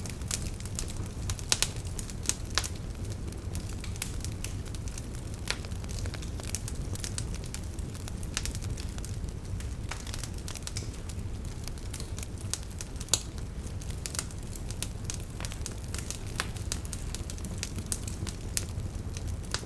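Wood fire crackling, with irregular sharp pops over a steady low rumble of the flames; a few pops stand out louder.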